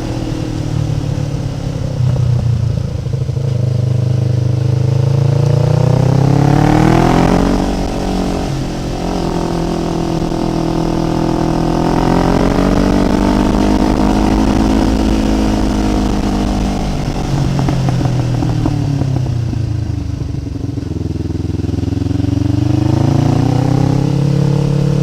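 Kawasaki Ninja 500's parallel-twin engine rising in revs to a peak about seven seconds in, then dropping off, pulling up again and holding, easing off around twenty seconds in and climbing once more near the end, as the throttle is worked through a switchback climb.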